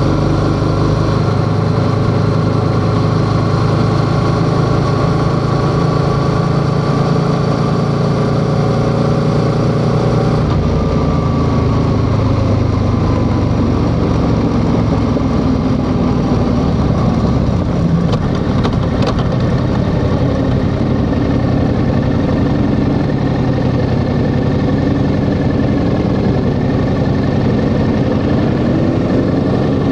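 Yamaha XSR700's parallel-twin engine running on the move, holding a steady speed, then dropping in pitch about ten seconds in as the throttle closes. It runs lower and rougher after that, and rises in pitch again near the end as it picks up.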